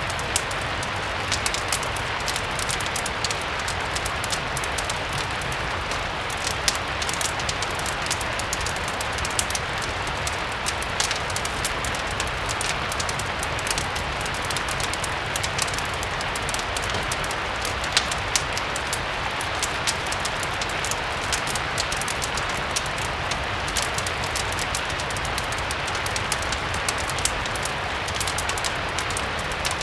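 Steady rain mixed with a crackling fireplace: an even hiss of rain with frequent scattered sharp crackles and pops, over a low rumble.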